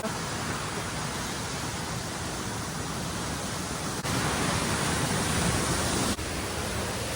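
Cloudland Falls rushing, a steady hiss of falling water. It jumps louder about four seconds in and drops back about two seconds later.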